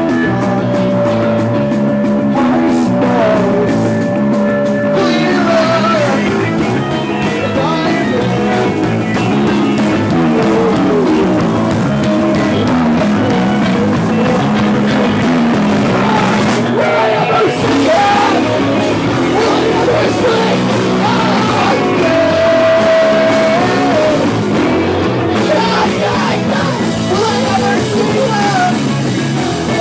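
Live rock band playing a song loud and without a break, punk-rock in style.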